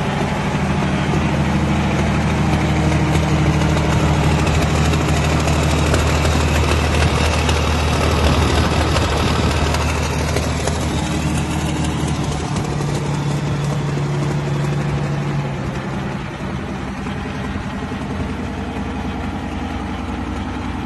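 A heavy vehicle engine running steadily with a low drone; its pitch dips briefly about nine seconds in, then steadies again.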